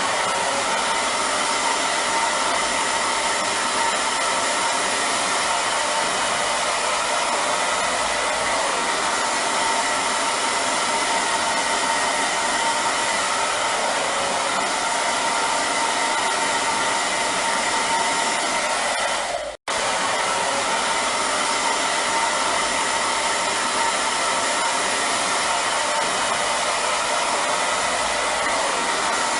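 Hair dryer blowing steadily: an even rush of air with a faint steady whine in it. The sound cuts out for a split second about twenty seconds in, then carries on unchanged.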